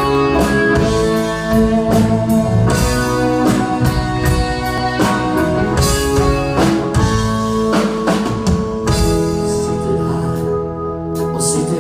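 A dansband playing the instrumental intro of a song, with guitar and drum kit over sustained chords.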